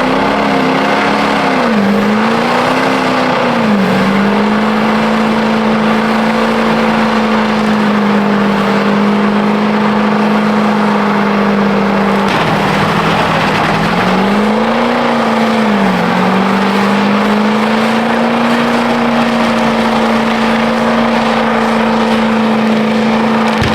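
Truck engine held at high revs during a burnout. The throttle is eased off and pulled back up a few times near the start and again a little past halfway, and otherwise stays pinned at a steady high pitch.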